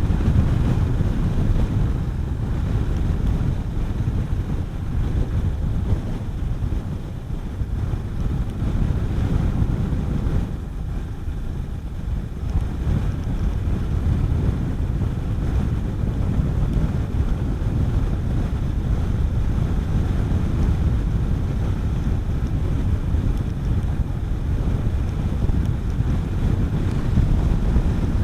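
Heavy wind buffeting on the microphone from riding a Honda CB400SS motorcycle at road speed, with the bike's single-cylinder engine running underneath. The rush eases for a few seconds about a third of the way in.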